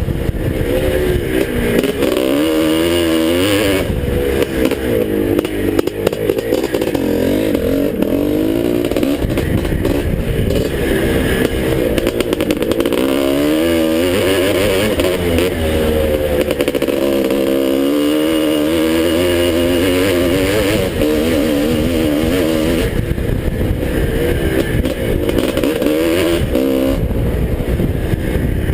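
A 1981 Husqvarna 430 two-stroke motocross bike's single-cylinder engine running hard, the revs rising and falling again and again as the rider throttles on and off through the course.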